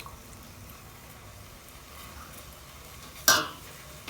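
A single short cough about three seconds in, over a quiet steady background.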